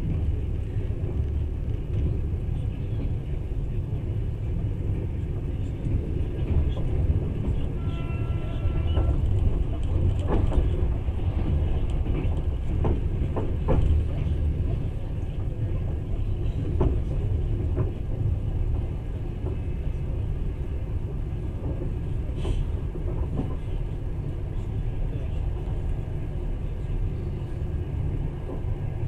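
Passenger train running along the rails, heard from inside the carriage: a steady low rumble, with scattered clicks and knocks from about ten seconds in and a brief pitched tone about eight seconds in.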